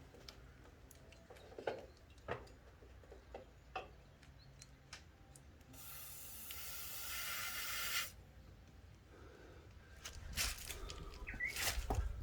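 Scattered light clicks and knocks of hand work under the bonnet. About six seconds in, an aerosol spray can hisses steadily for about two seconds and cuts off sharply.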